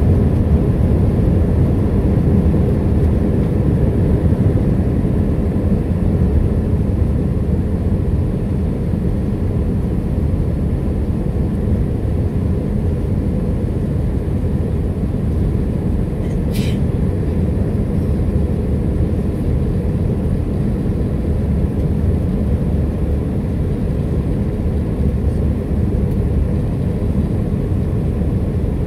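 Steady engine and airflow noise inside the cabin of an Airbus A321 during takeoff, easing slightly over time. A single short click comes about 16 seconds in.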